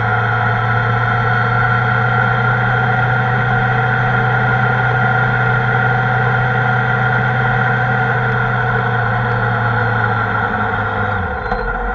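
Kawasaki ZR-7S air-cooled inline-four engine running at a steady pace under way. Near the end the engine note drops briefly and then picks up again.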